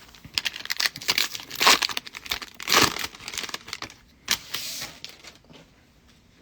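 Wrapper of a Panini Prizm trading-card pack being crinkled and torn open: a run of crinkling rustles that stops about five and a half seconds in.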